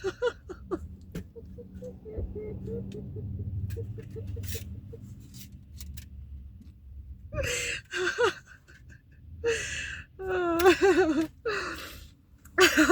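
A woman crying with joy: gasping breaths and high, wavering whimpering sobs that come in bursts over the second half.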